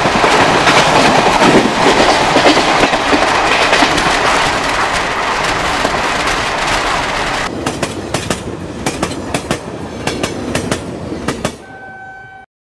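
Railway noise heard through an open window of a moving train: a loud, steady rush as a train of blue Indian Railways coaches goes past close alongside. From about seven seconds in, wheels click-clack rapidly over the rail joints; near the end a brief steady tone is heard and then the sound cuts off.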